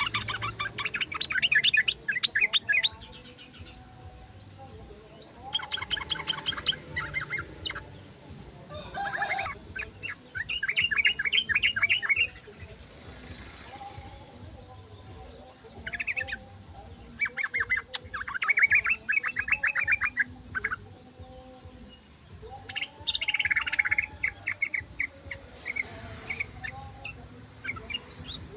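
Yellow-vented bulbul (trucukan) singing: repeated bursts of fast, bubbly chattering notes, each phrase lasting two to three seconds, with short pauses between them.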